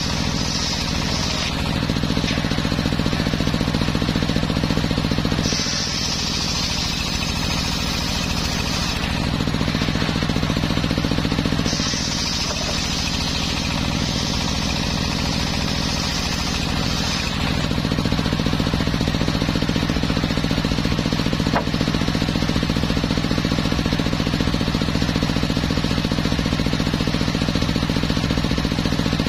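Homemade circular sawmill running steadily with a low machine drone, its blade sawing through teak. Three stretches of high hiss from the blade in the wood come and go, the last and longest lasting about five seconds.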